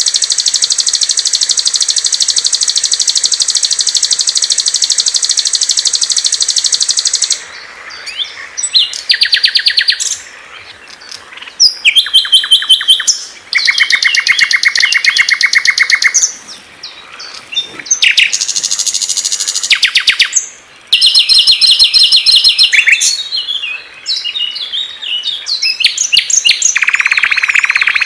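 Small songbirds singing loud, high-pitched rapid trills and chirp series. The song switches abruptly every few seconds from one trill type to another, starting with a long buzzy trill and ending on a steady, lower trill.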